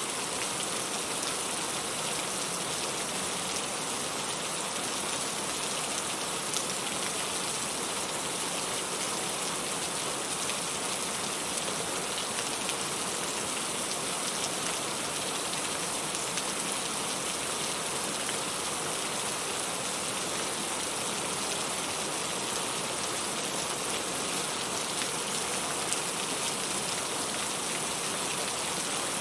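Steady rain falling: an even, unchanging hiss with occasional faint drop ticks.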